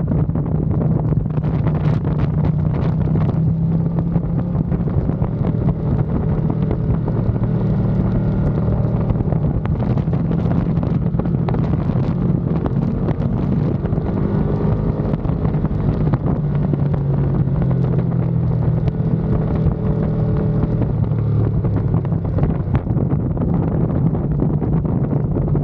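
Ducati Panigale V2 V-twin engine running at speed on a race track, its pitch rising and falling with the throttle, under heavy wind noise on the onboard microphone.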